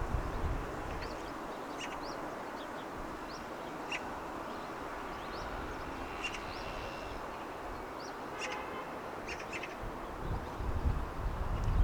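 Early-morning outdoor ambience over a city: a steady background hum with many short, high bird chirps and quick rising whistles scattered throughout, and low rumbles near the start and again near the end.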